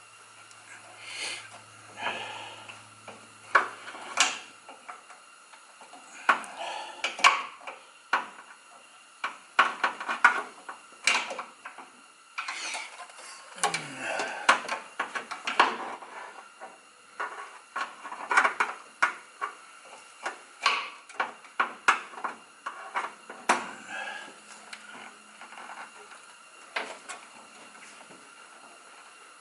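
Hand tools clinking, knocking and scraping against steel: a wrench working the brake hose bracket bolt loose. The irregular metallic clicks thin out near the end.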